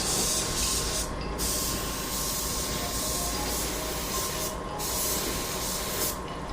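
Paint spray gun hissing steadily as paint is sprayed, with the spray stopping briefly twice: about a second in and again near five seconds.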